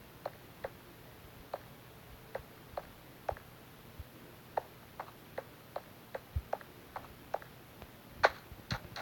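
A series of light, sharp ticks or taps at uneven intervals, roughly two a second, with one louder tap about eight seconds in.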